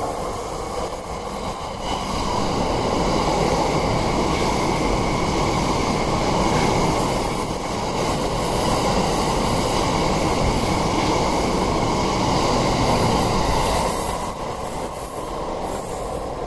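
JR East E657 series limited-express electric train running past the platform: wheel-on-rail rumble and running noise that builds over the first few seconds and stays loud while the cars go by.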